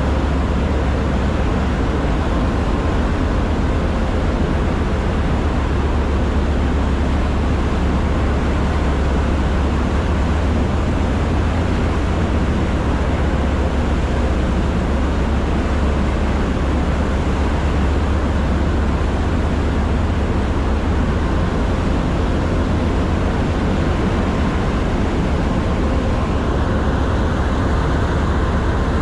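Steady, loud low rumble of a vehicle's engine heard while travelling, with an even hiss over it and no change in pace.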